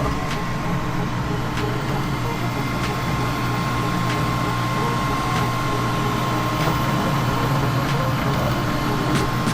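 3D printer running mid-print: a steady mechanical whir with a high held tone from the stepper motors and fans, and faint light ticks.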